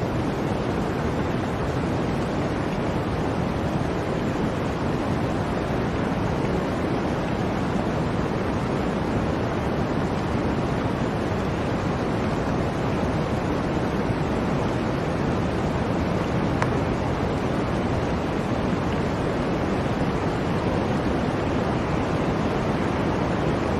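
Blizzard wind blowing steadily, a continuous rushing noise without gusts or breaks.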